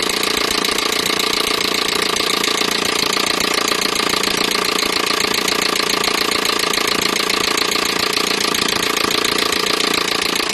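Peugeot 307 1.6 petrol four-cylinder engine running steadily, with a fast, even ticking running through it.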